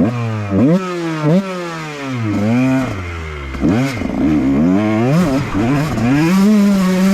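Dirt bike engine revving hard under throttle on a hill climb, the revs rising and dropping again and again as the throttle is worked, then holding steady near the end.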